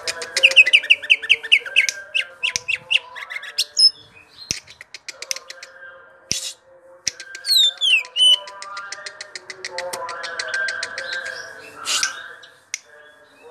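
Cucak ijo (green leafbird) singing a continuous rolling song. It opens with a fast trill of repeated high notes, then moves through clicks and sliding whistled phrases.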